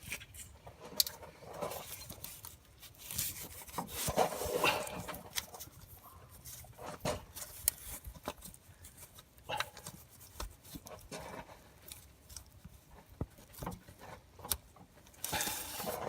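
Hands fitting a rubber-booted glow plug wire connector back onto a glow plug in a Land Rover TD5 engine bay: irregular rubbing and scraping with scattered small clicks as the rubber is worked on.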